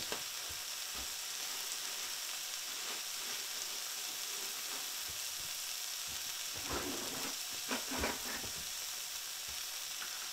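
Over-easy eggs and ham frying in a pan, with a steady sizzle. A few faint knocks come about two-thirds of the way in.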